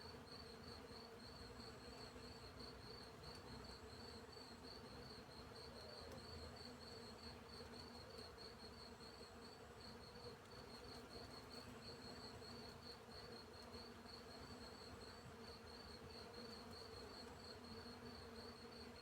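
Crickets chirping in a fast, even train of pulses, over a low steady hum of bees and, now and then, a short high insect trill.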